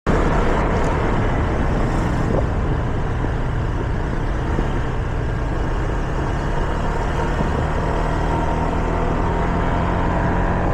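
Motorcycle running steadily on the move, its engine note mixed with a constant rush of wind and road noise.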